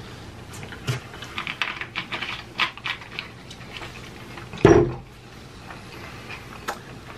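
Close-miked eating of crunchy hard-shell tacos: a run of crisp crunches and mouth clicks, then one heavy thump about four and a half seconds in, the loudest sound, before the chewing quietens.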